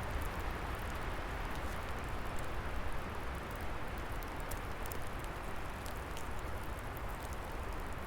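Wood fire crackling, with scattered small sharp pops, over a steady rushing of wind in the trees.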